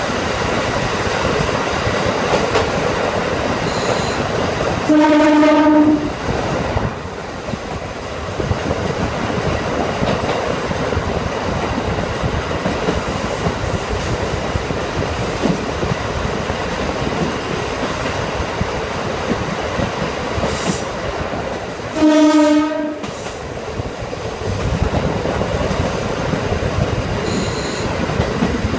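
Diesel railcar running at speed, heard from inside the cabin, with steady wheel and rail noise. The horn sounds twice, each a single steady note about a second long: once about five seconds in and again about twenty-two seconds in.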